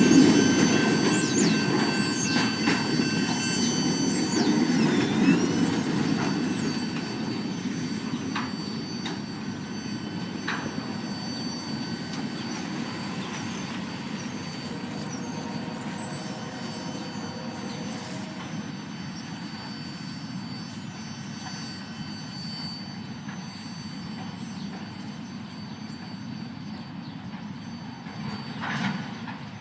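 Autorack freight cars rolling around a tight curve: steel wheels squealing against the rail in several high, steady tones with some sliding pitches, over a low rumble. After about six seconds the rumble and squeal fade away into quieter background noise.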